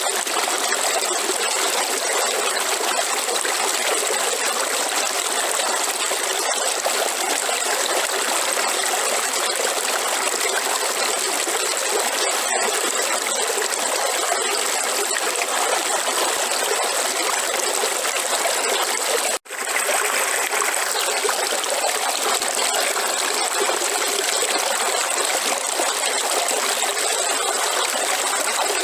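River water flowing steadily over rocks, an even rushing trickle with no break except one split-second dropout about two-thirds of the way through.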